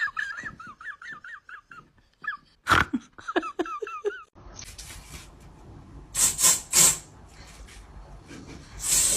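A dog vocalizing back in a quick run of short, wavering, high-pitched yips and whines for about four seconds, broken by one loud huff. Later come two short, loud noisy bursts.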